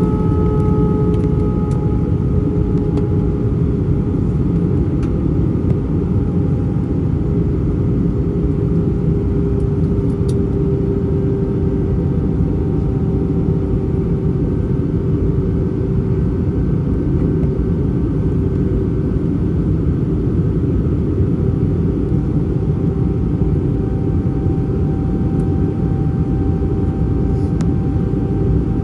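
Steady in-flight noise of an Airbus A320 heard from inside the cabin: a deep rush of airflow and engine rumble, with faint engine tones that hold steady and drift slowly in pitch.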